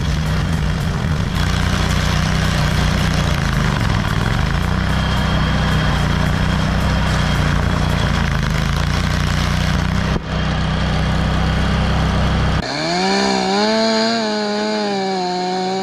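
Gas chainsaw engine running hard as it cuts through timber. Near the end the sound changes abruptly to a single steady engine tone that wavers slightly in pitch.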